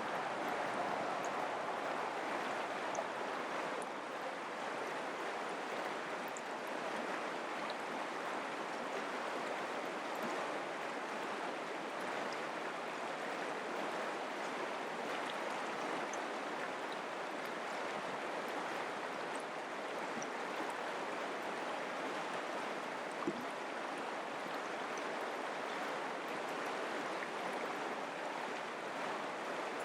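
Mountain creek water running steadily, an even rush of flowing water, with a single brief click about three-quarters of the way through.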